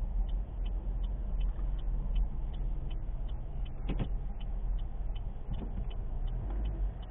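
Car turn signal ticking steadily, about two to three clicks a second, over the low rumble of road and engine noise inside the cabin, with one brief knock about four seconds in.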